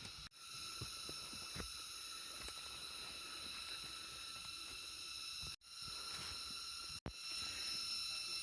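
Steady chorus of forest insects, several high shrill pitches droning together without a break in rhythm. The sound cuts out abruptly three times for an instant.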